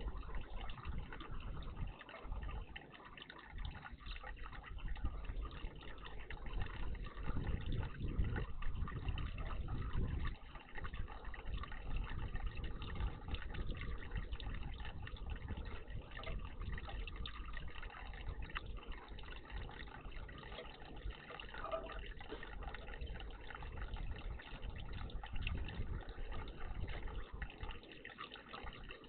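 Water trickling and splashing in a garden bird bath, a steady noisy wash with an uneven low rumble underneath.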